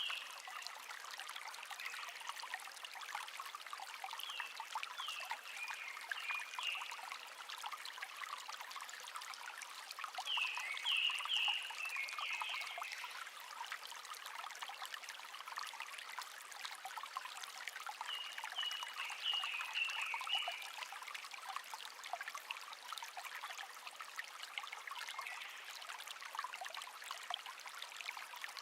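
A small stream babbling and trickling steadily, with a songbird singing a short phrase of quick high notes about four times.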